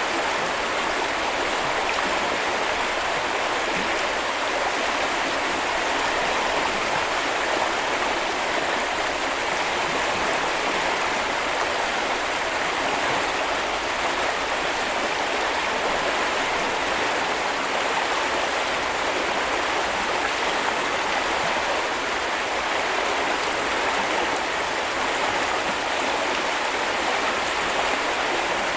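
Small river or brook flowing over stones, a steady rushing and babbling of water.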